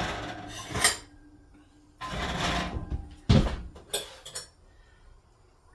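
Pots and pans being shuffled on a stovetop: a scraping rush, a heavy clank about three seconds in, then a few light clicks and taps.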